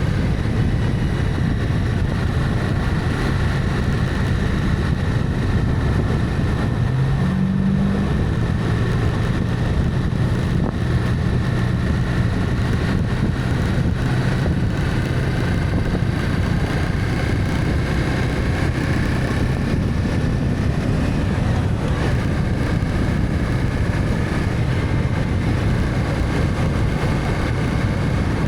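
Honda CB300F motorcycle's single-cylinder engine running while riding, with steady wind and road noise. The engine note shifts up about seven seconds in.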